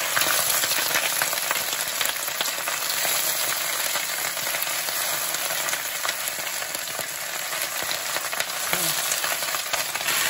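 Leafy greens sizzling in hot oil in a stainless frying pan, a steady hiss. They are stirred and tossed with a wooden spatula, which taps and scrapes against the pan now and then.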